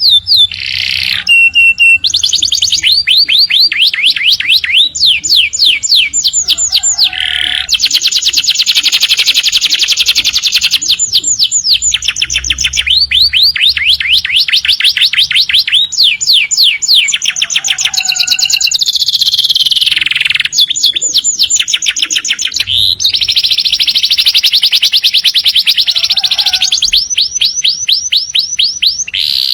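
Domestic canary singing a long, unbroken song of fast trills: runs of rapidly repeated high notes, some sweeping down in pitch, with barely a pause.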